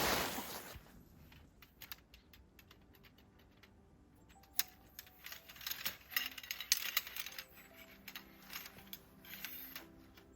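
A rush of wind noise at the start dies away within about a second. After that come many small clicks and clinks of things being handled, busier from about four seconds in, over faint background music.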